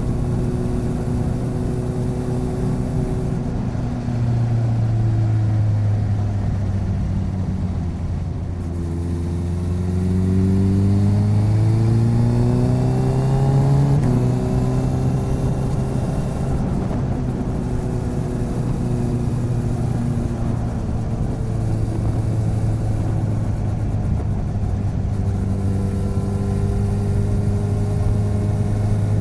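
Motorcycle engine and exhaust while riding, picked up by a recorder mounted on the side of the bike. It holds a steady pitch, then rises as the bike accelerates from about a third of the way in, drops sharply at a gear change around halfway, and settles back to a steady cruise.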